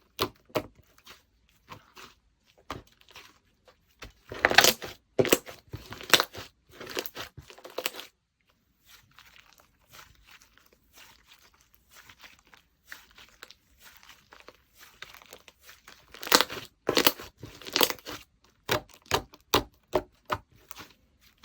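르포렘 slime being squished, folded and stretched by hand, giving irregular runs of sticky pops and clicks. It is busiest a few seconds in and again near the end, and quieter through the middle.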